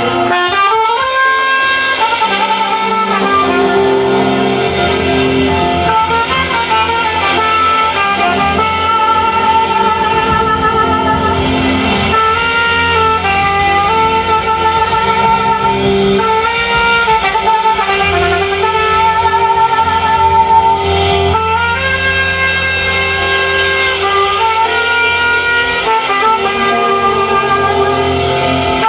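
Saxophone playing a slow, sustained melody with vibrato over a held chordal accompaniment.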